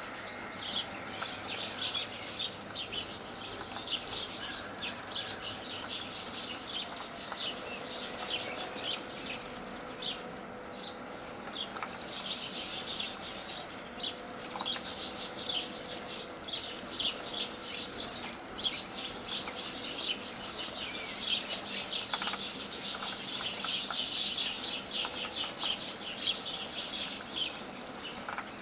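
Small birds chirping in rapid, overlapping short calls that go on without a break and grow busiest in the second half.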